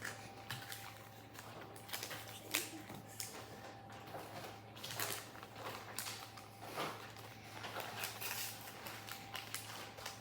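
Faint rustling and scattered light clicks of small plastic bags and miniature plastic toy items being handled and opened.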